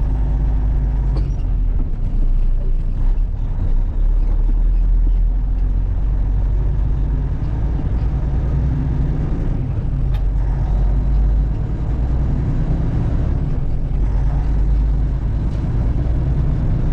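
Diesel dump truck engine running steadily, a constant low drone.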